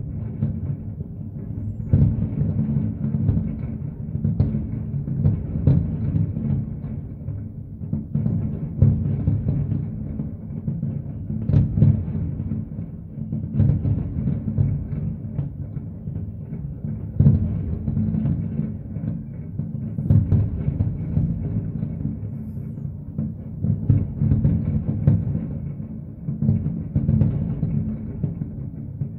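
Fireworks bursting in quick succession: a continuous rumble of deep booms, with sharper bangs every second or two.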